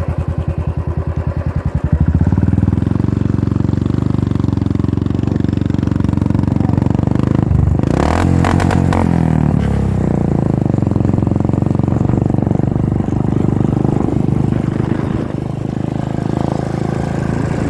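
Royal Enfield Classic 350 single-cylinder engine running through an aftermarket full exhaust system. It thumps at a slow idle, then is held at higher revs from about two seconds in, with a short change in revs near the middle.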